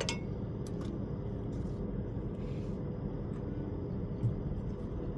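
A motor running steadily with a low drone, with a few light metal clicks and taps near the start and one about four seconds in.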